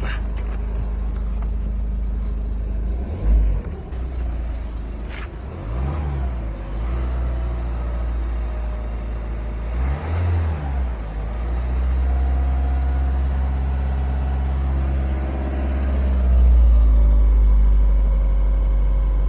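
Car engine idling, blipped twice with a short rise and fall in revs partway through, with a steady low rumble throughout.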